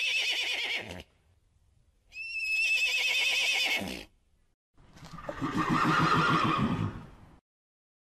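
Horse whinnying: a high, quavering whinny ends about a second in and a second one follows, then a lower, rougher call from about five seconds in.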